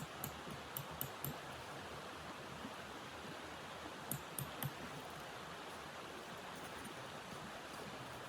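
Steady rushing noise like wind, with short runs of soft thuds and clicks, about two to three a second, in the first second and again about four seconds in.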